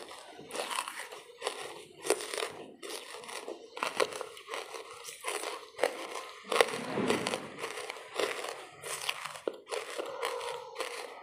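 Lumps of charcoal being bitten and chewed: an irregular run of crisp crunches, about one or two a second, with the loudest crunch about six and a half seconds in.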